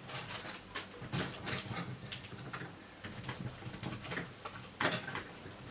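Scattered light clicks and rustles of small objects being handled, with a sharper click about five seconds in.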